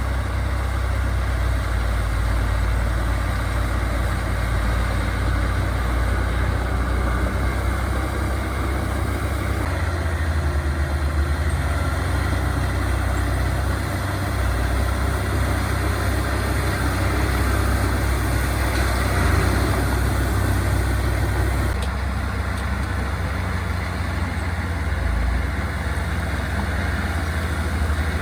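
Diesel engines of heavy earthmoving machines running steadily: a continuous deep drone that swells slightly about two-thirds of the way through.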